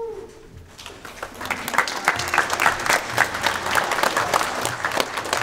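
Audience applauding, the clapping swelling up about a second in and then holding steady.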